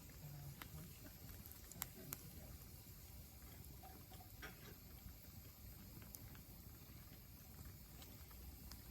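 Quiet campfire with a few faint sharp crackles and pops from the burning wood, the two loudest close together about two seconds in.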